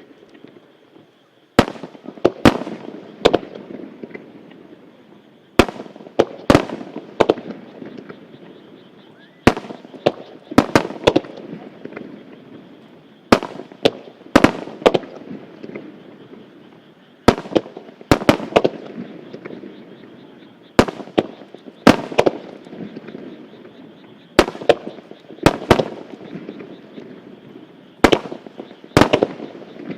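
Starmine rapid-fire fireworks barrage: aerial shells bursting in sharp bangs, grouped in clusters of two to four every few seconds, with a steady rumble between the clusters.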